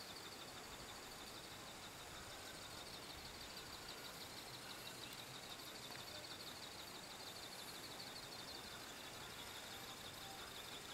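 Faint outdoor background with insects trilling in a fast, steady pulse.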